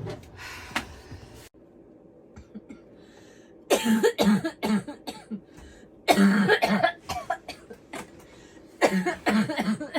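A person coughing in three fits of several quick coughs each, about four, six and nine seconds in.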